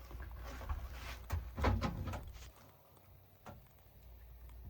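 A few light knocks and clicks, as of things being handled or a hatch or door moving, over a low rumble that drops away about halfway through.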